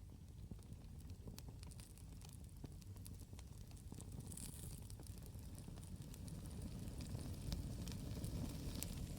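Wood campfire crackling, with many scattered sharp pops and snaps. Underneath is a steady low rumble that grows gradually louder.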